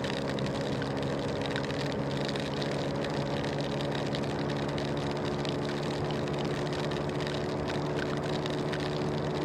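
Scooter engine running at a steady speed while riding, its pitch level, under a dense hiss of rain and wind.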